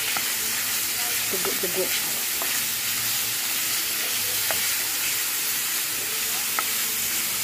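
Pork liver pieces sizzling steadily in hot oil in a frying pan while a wooden spatula stirs them, with a few light taps of the spatula on the pan. The liver is being seared so the blood cooks out.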